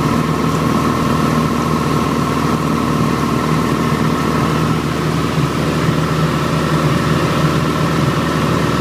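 Light aircraft's piston engine and propeller droning steadily in level flight.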